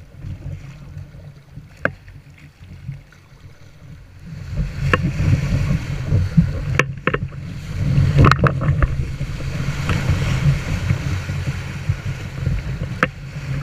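Kayak on a river: water rushing and splashing around the boat, with wind rumbling on the microphone. A few sharp knocks come through, and it all grows louder about four and a half seconds in.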